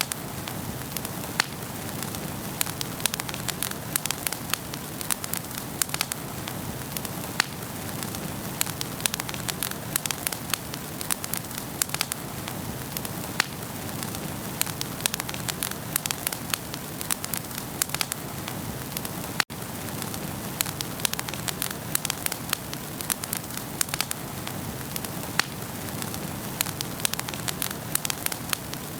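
Wood fire burning in a fireplace, crackling steadily with frequent sharp pops over a soft hiss. There is a split-second gap in the sound about two-thirds of the way through.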